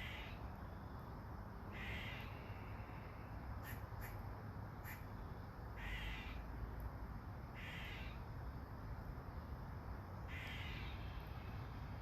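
A crow cawing, single harsh caws every two seconds or so, five in all, over a steady soft hiss of light rain.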